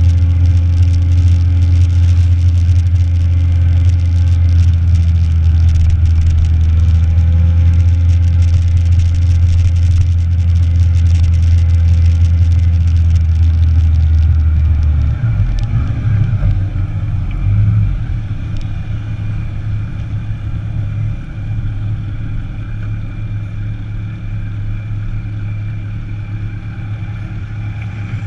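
Motorcycle running along at a steady speed with a deep steady drone. About halfway through the drone drops away and the sound becomes quieter and rougher.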